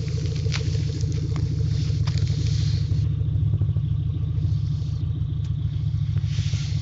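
VAZ 21099 (Lada Samara) fitted with an aftermarket sports exhaust, running at a steady idle: a deep, even, pulsing exhaust note with scattered faint crackles.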